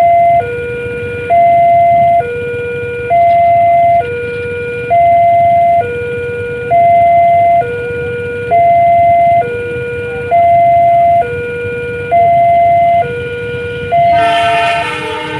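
Railway level-crossing warning alarm sounding a two-tone hi-lo signal, a higher and a lower tone each held about a second in turn, warning of an approaching train. About a second before the end a train horn sounds over it.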